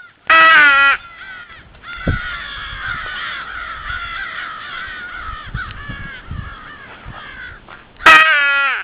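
A flock of American crows cawing, many calls overlapping, with two loud, close caws, one about half a second in and one near the end.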